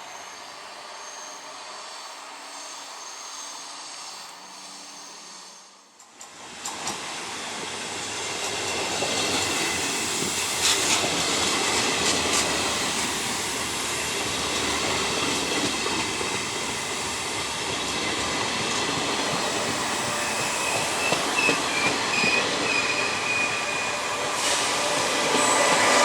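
A train running along the rails through a station, with wheel squeal and scattered clicks from the wheels and track. About six seconds in the sound drops out briefly, then returns much louder and stays loud.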